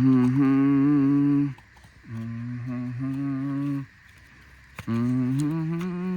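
A person humming a slow, low tune in three long phrases, with held notes that waver slightly and short pauses between the phrases.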